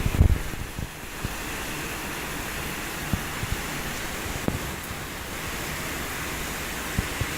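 Heavy rain falling, a steady dense hiss, with scattered low thumps and a short burst of them at the start.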